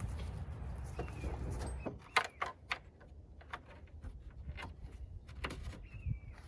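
A low rumble that stops about two seconds in, then scattered sharp clicks and knocks, with short squeaks about one second and six seconds in.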